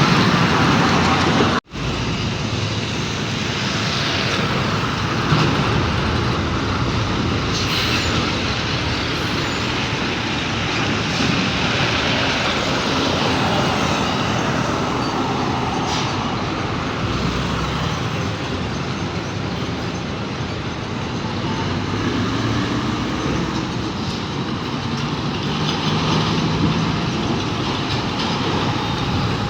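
Heavy diesel trucks running on a road, a steady mix of engine and tyre noise from passing traffic. The sound cuts out for an instant about two seconds in.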